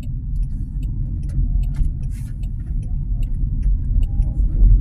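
Road and tyre noise inside the cabin of a moving Waymo self-driving electric Jaguar I-Pace: a steady low rumble with faint scattered clicks and rattles.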